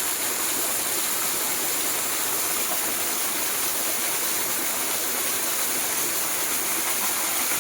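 Small mountain stream's waterfall, water pouring and splashing in a steady rush.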